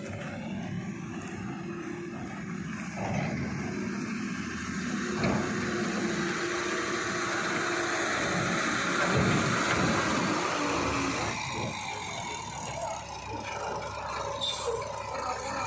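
Diesel engine of a JCB 3DX backhoe loader working under load while loading a lorry. It grows louder towards the middle and eases off after about eleven seconds, with a brief sharp sound near the end.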